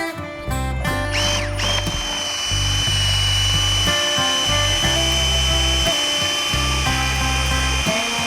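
Background music with a steady bass line. Under it, from about a second in, a kayak's motor starts with a brief rising whine, then runs at a steady high pitch.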